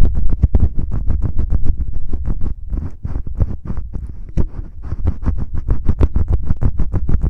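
Fingertips rubbing, scratching and tapping in the ear of an ASMR ear-shaped microphone: rapid strokes, several a second, with a deep rumble from the contact, easing off for a couple of seconds in the middle.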